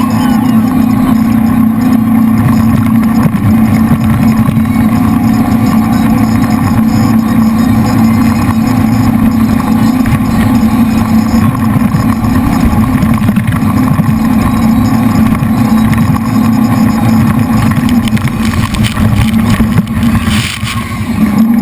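Jet boat's V8 engines running hard and steady under way, with a strong low drone, easing briefly near the end.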